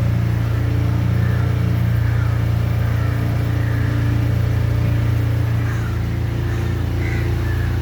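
Motorboat engine running steadily under way, a continuous low drone.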